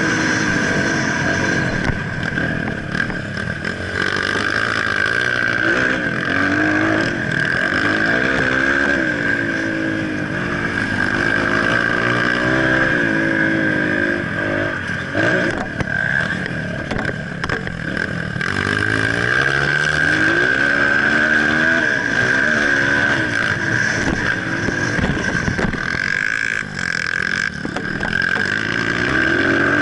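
Motocross dirt bike engine revving up and down again and again as the bike rides, its pitch climbing and dropping every second or two. A steady high whine runs underneath.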